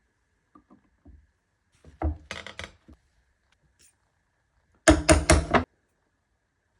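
Workshop knocks and clatter of hard objects: a few light taps, then a quick run of strikes about two seconds in, and a louder run of four or five strikes about five seconds in.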